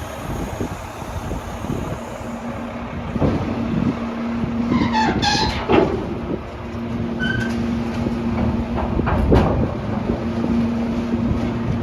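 Mack side-loader garbage truck running with a steady hum. A few knocks sound through it, and about five seconds in there is a brief squeal that falls in pitch.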